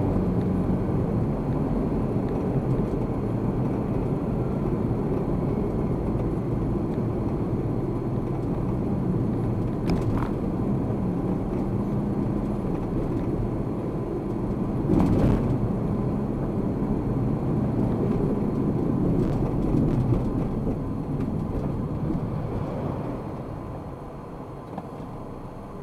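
Car engine and road noise recorded by a dashcam inside the cabin while driving, steady for most of the stretch. There are two short knocks, about ten and fifteen seconds in, and the noise gets quieter near the end.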